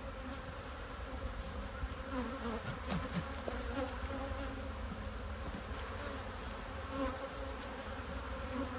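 Honey bees buzzing steadily around an opened hive: a continuous, even hum of many bees.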